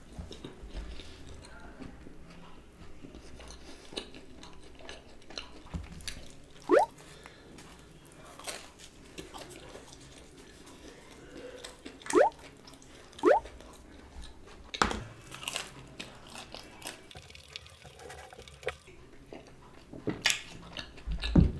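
Close-miked chewing and biting of cheesy pizza, with wet mouth sounds, scattered sharp clicks and a few short rising squeaks.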